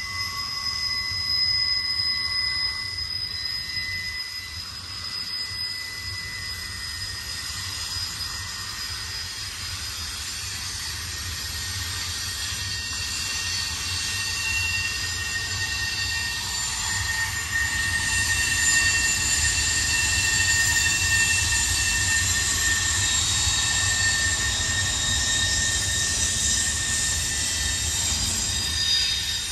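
Freight train rolling past, its steel wheels squealing on the rails in several high, drawn-out tones over a low rumble. The squeal grows louder past the middle.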